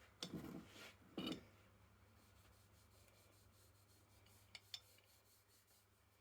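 Two short rubbing strokes in the first second and a half, then two light clicks about four and a half seconds in, with faint quiet between.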